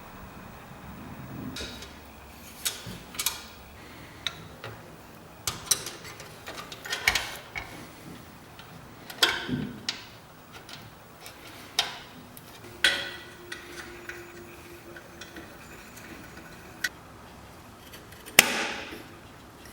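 Irregular clicks, clinks and knocks of small hard parts being handled and fitted together, a dozen or so sharp strokes with a few short scraping sounds, the loudest near the end.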